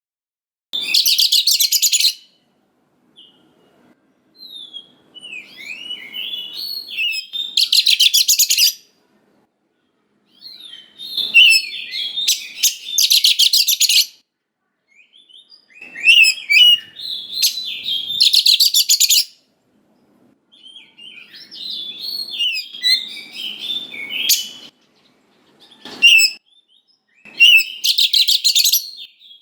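Oriental magpie-robin singing loudly in a run of phrases. Varied whistled and slurred notes alternate with harsh, rapid buzzy rattles about a second long, with short pauses between phrases.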